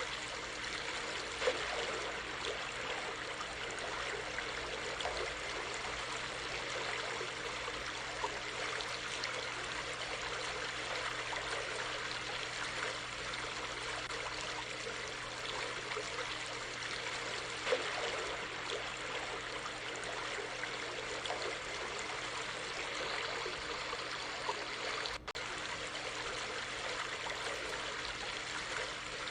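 A small stream running steadily, with continuous trickling and babbling water and a few brief louder splashes. The sound drops out for a moment about 25 seconds in.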